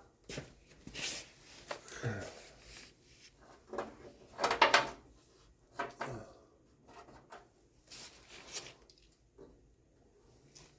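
Irregular knocks, scrapes and clatter of metal tools and parts being handled, loudest about four and a half seconds in.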